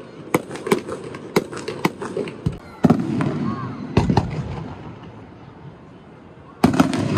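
Fireworks display: a quick run of sharp crackling bangs in the first couple of seconds, then heavier booms of bursting shells about three, four and six and a half seconds in, each with a rolling rumble after it.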